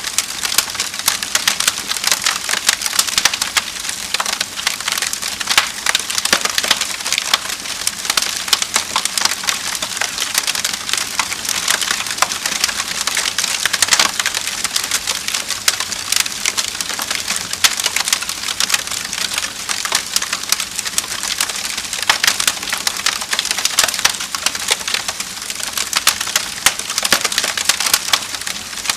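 Wood fire crackling steadily, with dense pops and snaps of burning logs over a soft hiss.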